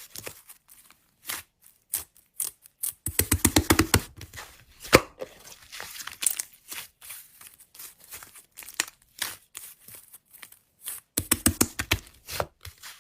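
Slime being squished and stretched by hand: sticky crackles and pops, coming in quick dense runs about three seconds in and again near the end.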